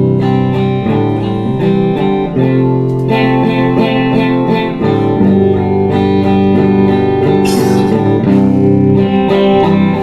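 Worship band playing an instrumental passage between sung lines, led by strummed guitar over held chords that change every second or two, with a cymbal swell about two thirds of the way through.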